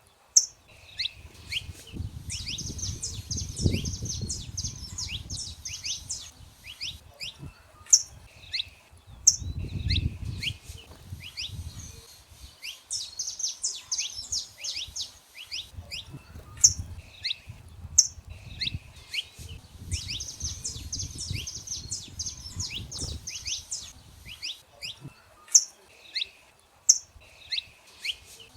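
Saffron finches singing: three longer bouts of rapid, high chirping phrases, with single sharp chirps in between. A low rumble comes and goes underneath.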